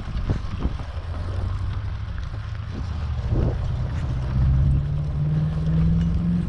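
Wind buffeting the microphone and low road rumble on a moving road bicycle. A low hum rises slowly in pitch through the second half.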